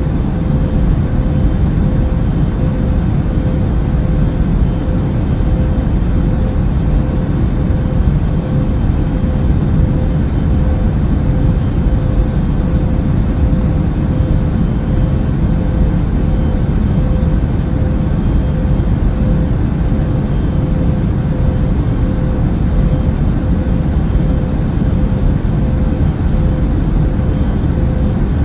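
Airbus A380 cabin noise in flight: a steady, unchanging low rush of engine and airflow noise with a thin steady hum on top.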